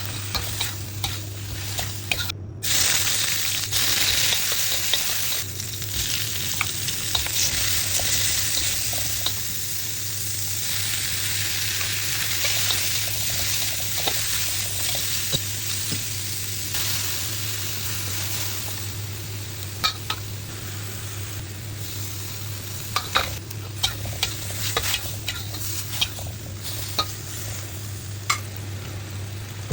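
Instant noodles stir-fried drunken-noodle style in a hot pan, sizzling steadily. Frequent sharp taps of a utensil against the pan are heard, more of them in the second half. The sound cuts out for an instant about two and a half seconds in.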